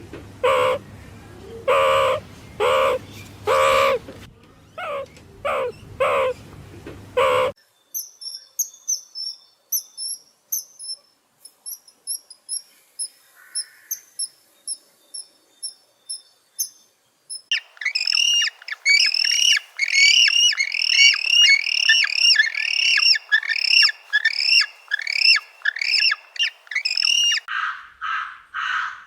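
Bird calls from several different birds in turn. First come harsh calls repeated about twice a second. Next is a long series of thin, very high chirps, then a fast run of chirps, each a quick falling note, and lower calls begin near the end.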